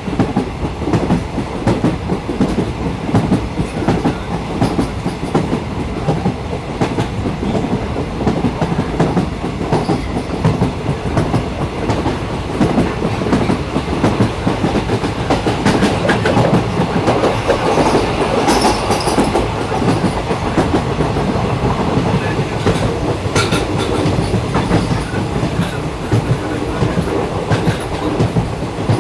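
Passenger train running along the track, heard from on board: a steady rumble of wheels on rail with irregular clicks and clatter over the joints. A few brighter, sharper clatters come a little past the middle.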